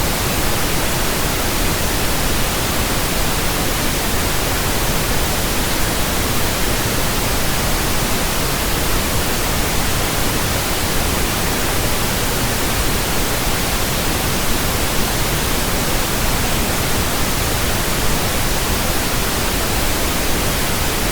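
Steady pink noise from a pink noise generator: an even, loud hiss across the whole range with no pitch or rhythm, played as a burn-in signal for breaking in new speakers, headphones and earphones.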